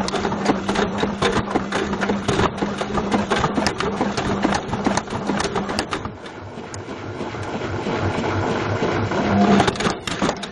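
Beko washing machine drum turning with a Bush VCR807 video recorder tumbling inside, knocking and clattering rapidly over the motor's steady hum. The knocking eases for a couple of seconds about halfway, then builds again.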